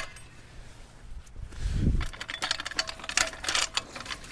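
Irregular metallic clicks and clinks of equipment being handled, with a sharp click at the start and a short low rumble about two seconds in.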